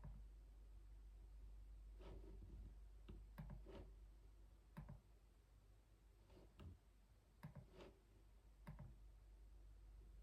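Keyboard keys being typed quietly in slow, scattered keystrokes, about ten with pauses between, some in quick pairs, over a faint low hum.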